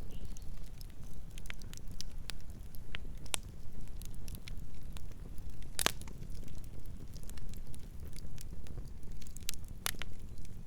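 Wood campfire crackling: a low steady rumble of burning under irregular sharp snaps and pops. The loudest snaps come about six seconds in and again near the end.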